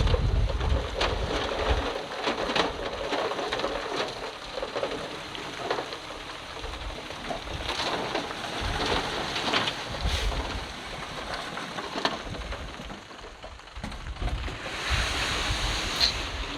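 Loose stone and rock clattering and sliding in a heavy, continuous rattle of many small knocks, with a low rumble swelling at the start, about ten seconds in and near the end.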